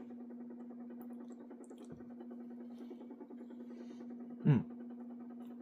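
Steady low electrical hum, with one short grunt about four and a half seconds in whose pitch drops quickly.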